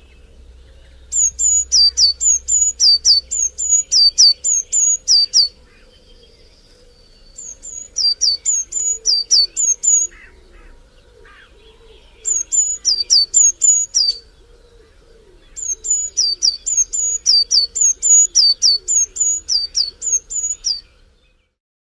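A songbird singing in four bouts of rapidly repeated high, down-slurred notes, about three a second, over fainter chirping from other birds. The song cuts off abruptly near the end.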